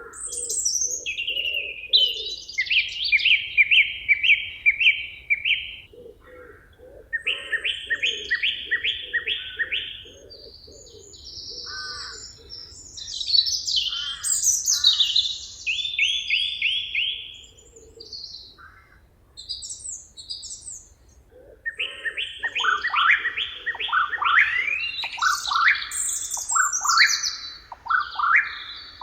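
Several songbirds singing in a forest: phrases of fast repeated notes, broken by short pauses, with a quieter gap about two-thirds of the way through before the singing thickens again.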